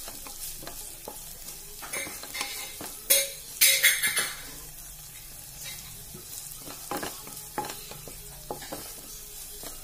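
Chopped garlic and green chilies sizzling in butter in a pan while a wooden spatula stirs them, with short scrapes and knocks of the spatula against the pan. A louder run of scraping comes about three to four seconds in.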